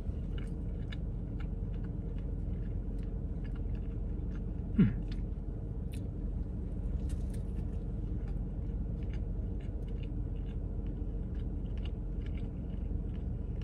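A man biting into and chewing a burger with his mouth closed: many small, soft clicks of chewing over a steady low hum. A short hum in his throat, falling in pitch, comes about five seconds in.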